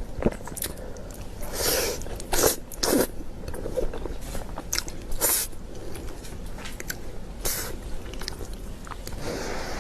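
Close-miked mukbang eating of cheesy spicy instant noodles: wet chewing and smacking, broken by a handful of louder bites.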